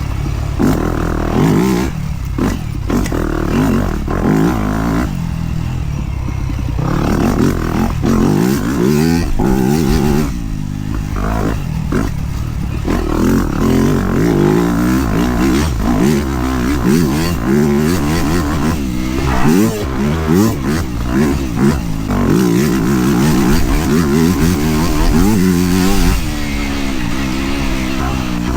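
Dirt bike engine under riding load on a trail. The engine note climbs and falls over and over with the throttle, with several brief dips where the throttle is rolled off.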